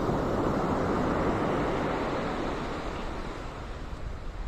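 Ocean surf washing up the beach, loudest in the first couple of seconds and then slowly fading.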